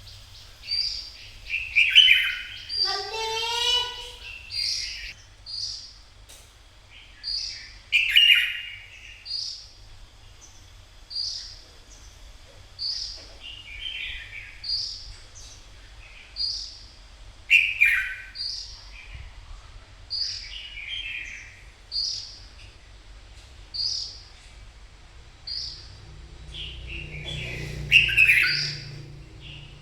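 Red-whiskered bulbul song: a short high chirp repeated about every second and a half, broken every few seconds by louder warbled phrases, with a quick rising run of notes a few seconds in.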